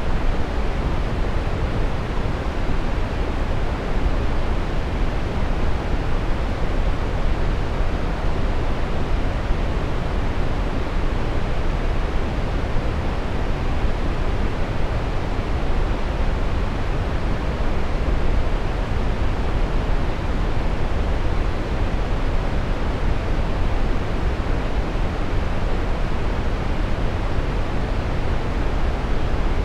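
Brown noise: a steady, even hiss-like rumble, strongest in the low bass and falling off toward the highs, with no change throughout.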